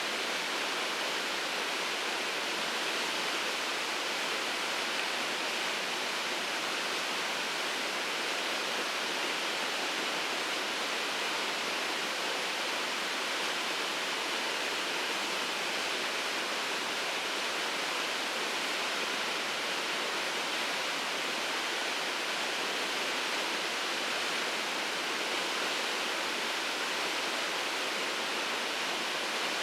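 Waterfall crashing into its plunge pool, a steady even rush of water.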